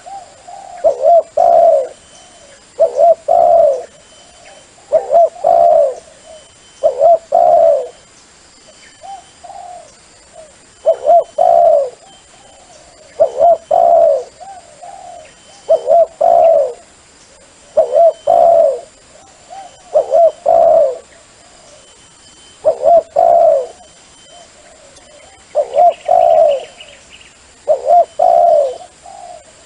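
A dove cooing in short two- to three-note phrases, repeated about every two seconds: a lure call for drawing wild doves to a decoy.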